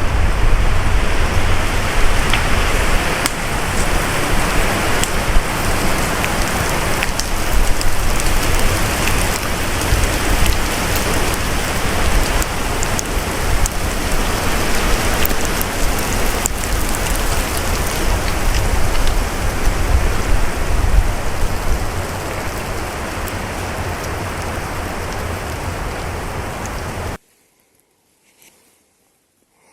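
Storm-force wind gusting hard, buffeting the microphone with a deep uneven rumble under a steady rushing noise. It cuts off abruptly about 27 seconds in, leaving near silence.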